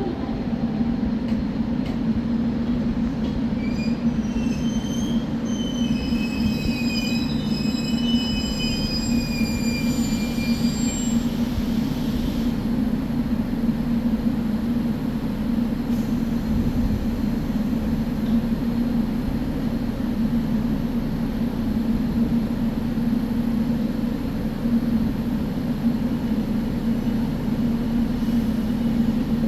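JR Kyushu 783-series electric train running with a steady rumble. From about 3 to 12 seconds in, its wheels squeal with several high tones that waver in pitch, then stop.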